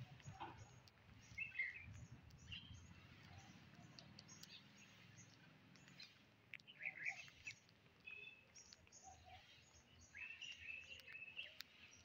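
Faint bird chirps in three brief spells, the last and longest near the end, over scattered faint light clicks.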